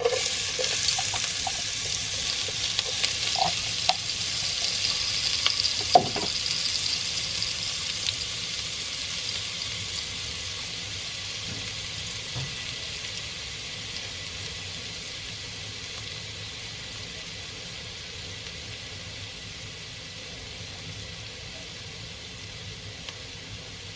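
Onion going into hot oil in a frying pan, sizzling loudly at once and slowly dying down. There are a few clicks of stirring early on and one sharp knock about six seconds in.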